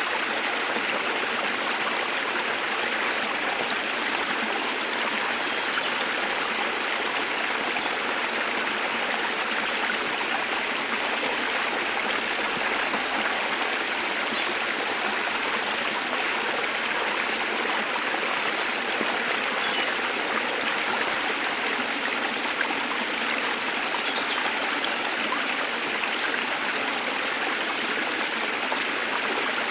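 Steady rush of a waterfall's falling water, even and unbroken, with a few faint, brief bird chirps above it.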